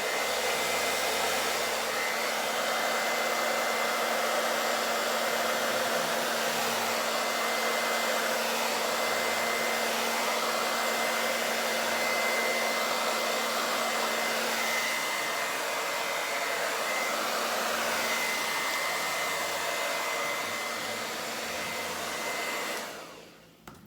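Handheld hair dryer running steadily, a rush of blown air with a thin high whine, used to push wet fluid acrylic paint across a canvas. It switches off near the end.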